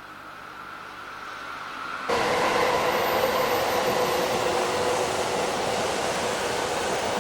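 A train running on rails, growing louder, then jumping suddenly louder about two seconds in to a steady rush of running noise with a steady whine.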